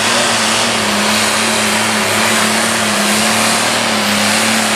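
Diesel super stock pulling tractor's engine running flat out under load during a pull: loud and steady, with a steady low engine tone under a dense high rush of noise.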